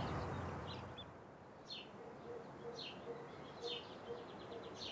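A bird chirping: short, high calls about once a second, with a brief quick trill near the end, over a faint outdoor hiss.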